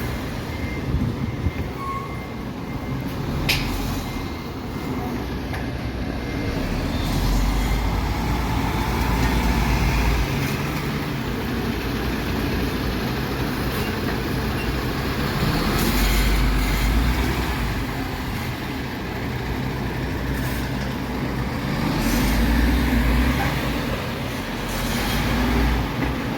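Diesel engine of a MAN TGS 26.320 garbage truck running with a steady low rumble, its revs swelling and falling back three times. A single sharp click comes a few seconds in.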